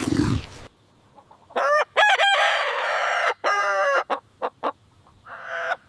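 A low, noisy snort cuts off within the first second. Then a rooster crows, a long call in several pitched parts, followed by a few short clicks and a shorter call near the end.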